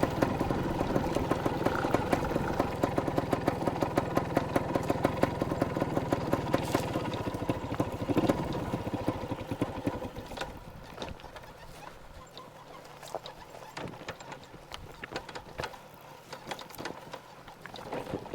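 Yamaha TY250 two-stroke single-cylinder dirtbike engine running in rapid, even pulses. About ten seconds in it drops away and the bike stalls, leaving scattered knocks and rattles.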